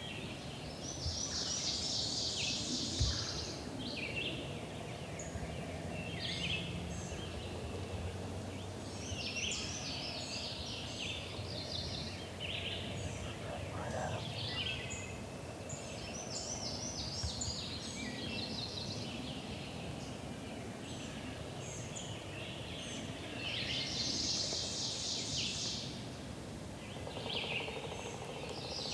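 Wild turkeys gobbling: one long rattling gobble about a second in and another near the end, with songbirds chirping between them.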